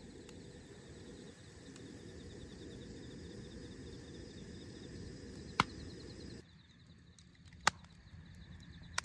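Crickets chirping in a steady, fast pulsing trill over a low rumble that cuts off abruptly about six and a half seconds in, with three sharp clicks or pops.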